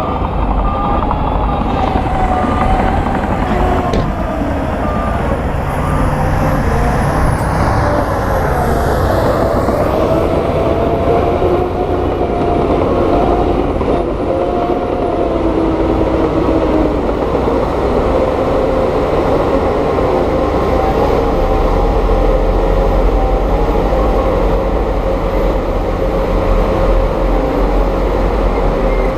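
Heavy diesel earthmoving machinery running continuously, its engine pitch shifting up and down as it works.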